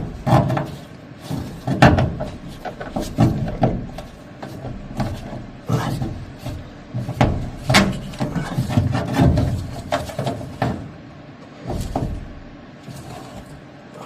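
Irregular knocks, clicks and scraping of hand tools and metal parts being handled during work on a furnace's copper oil line.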